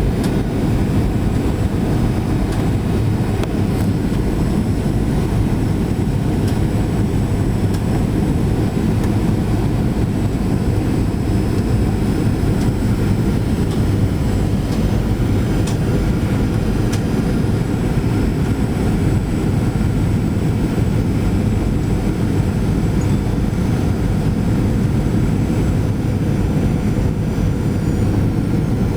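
Steady, loud cabin noise of an airliner during landing: engines running and air rushing past the fuselage, heard from inside the cabin as an even low rumble.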